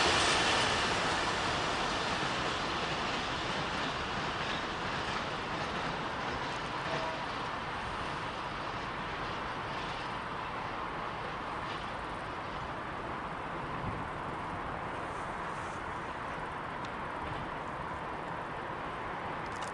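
Freight train of tank wagons running away into the distance, its rumble fading over the first few seconds and settling to a steady, distant rumble.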